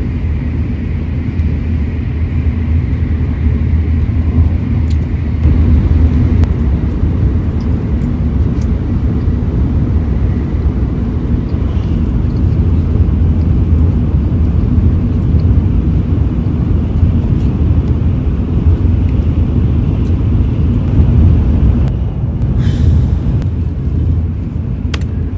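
Shinkansen bullet train running noise heard inside the passenger cabin: a steady low rumble, with a few faint clicks over it.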